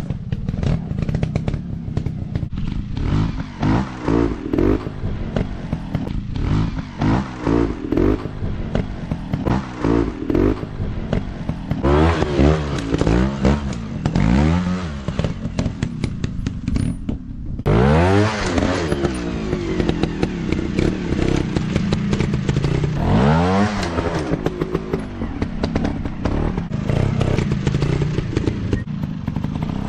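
Dirt bike engines revving up and dropping back again and again as the bikes are ridden over rough ground, with rattling clatter.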